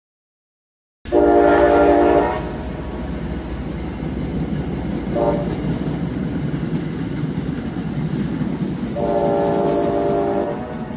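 MBTA commuter rail train passing with a steady low rumble. Its horn sounds suddenly about a second in with a long blast, gives a short toot around five seconds, then another long blast near the end.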